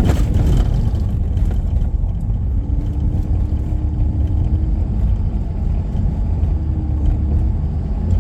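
Steady low rumble of a car's engine and tyres on the road, heard from inside the cabin while driving, with a short knock right at the start.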